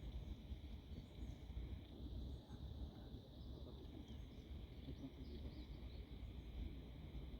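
Wind buffeting the microphone with a low, uneven rumble, under a steady high-pitched insect buzz and a few faint, brief bird chirps.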